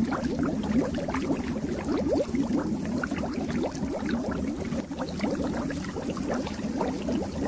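Fish tank water bubbling steadily, a dense stream of small bubbles rising and popping, over a low steady hum.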